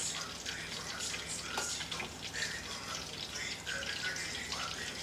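Aubergine slices sizzling and crackling steadily as they shallow-fry in hot oil.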